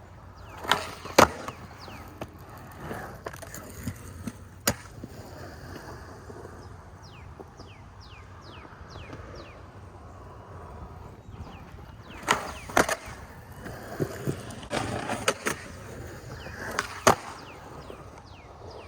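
Skateboard rolling with sharp clacks of the board hitting the ground as shove-its are tried: two clacks about a second in, one near five seconds, and a cluster of clacks from about twelve to seventeen seconds.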